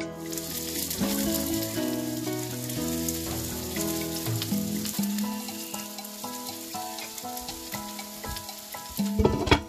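Chicken thigh pieces sizzling as they fry in hot oil in a frying pan, with a louder knock near the end.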